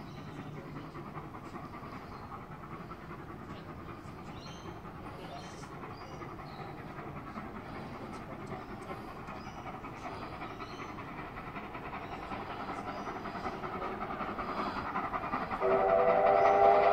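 A train hauled by steam locomotive 3016 and Alco diesel 4490 approaching, its rumble growing steadily louder. Near the end a train whistle sounds, a loud chord of several tones.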